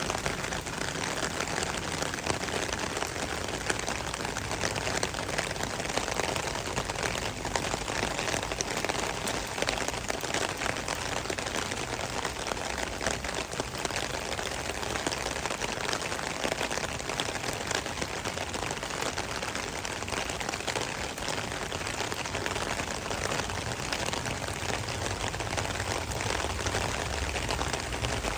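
Steady rain falling, a dense hiss made up of countless small drop hits.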